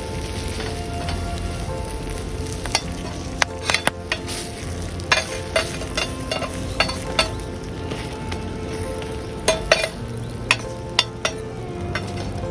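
Food frying and sizzling in a pan, a steady hiss, with a dozen or so sharp clicks of a cooking utensil against the pan as the food is stirred or turned.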